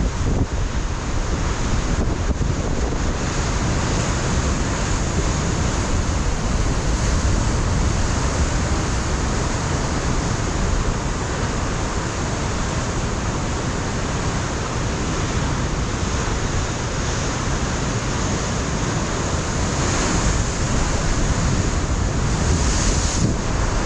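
Pacific surf breaking on a rocky coastline, a steady wash of noise that swells and eases a little, with wind buffeting the microphone.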